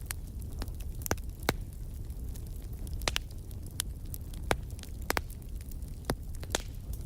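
Firewood burning in a fireplace: about ten sharp, irregular pops and snaps over a steady low rumble of the fire.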